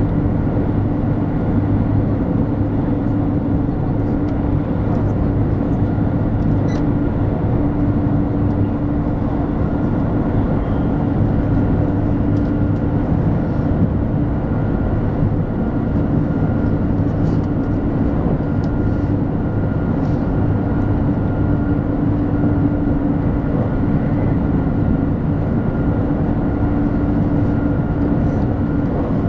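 Cabin noise of a 200 series Shinkansen running at speed: a steady rumble of wheels and air with a constant low hum and a faint high whine.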